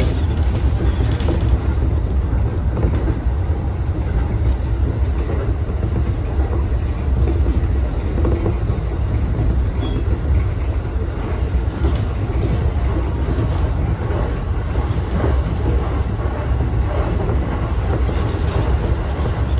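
JR Keihin-Tohoku Line electric commuter train running, heard from inside the driver's cab: a steady low rumble of wheels on rail with a few faint scattered clicks.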